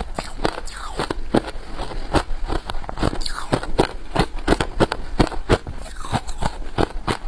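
Crunching of freezer frost being bitten and chewed: an irregular run of sharp, crackling crunches, several a second.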